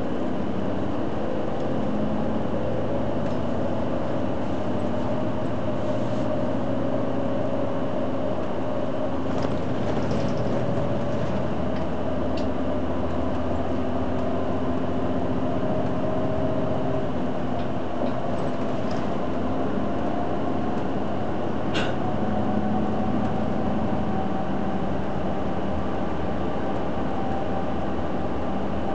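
Hino Blue Ribbon City Hybrid bus running along the road, its drivetrain giving several whines that slowly rise and fall over steady running noise. A sharp click sounds about three-quarters of the way through.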